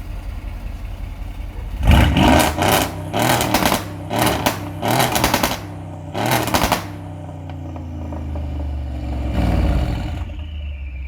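Mercedes-AMG GLE 63 Coupe twin-turbo V8 revved through its sports exhaust, a factory muffler modified for a louder sound. It idles, then gets about five quick, sharp blips of the throttle, one more softer rev near the end, and settles back to idle.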